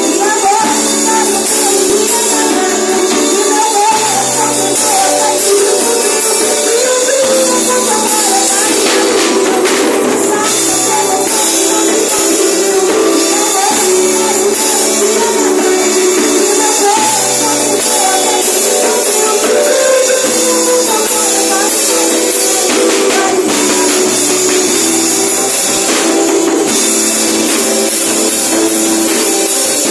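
Praise band music with a tambourine jingling steadily over sustained chords and a melody line.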